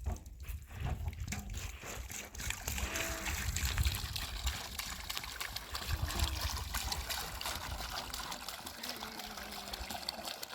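Trickling water, a steady crackling wash with a low rumble underneath.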